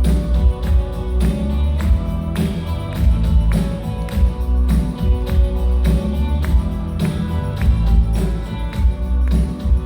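A rock band playing live: a heavy bass and drum beat under guitars and held keyboard or guitar tones, with no clear vocal line.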